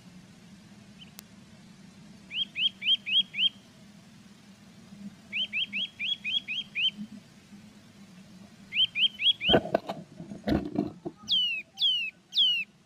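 Small songbird calling in three quick series of short, rising chirps, then three longer high notes that slide downward near the end. About two-thirds of the way through come a few dull knocks and scrapes.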